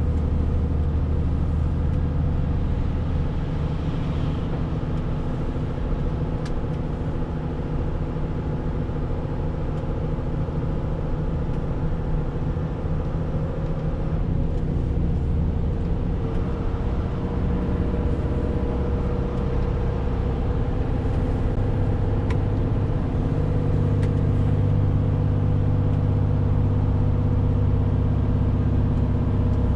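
Renault T520 truck's 13-litre straight-six diesel engine running under way, with its note shifting in pitch a few times and growing fuller in the last several seconds.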